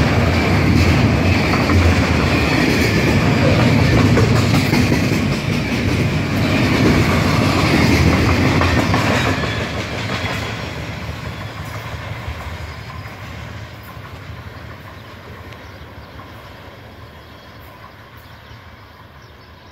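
Double-stack container freight train rolling past fast, its wheels clacking over the rail joints. About halfway through, the noise begins to die away steadily as the end of the train draws off into the distance.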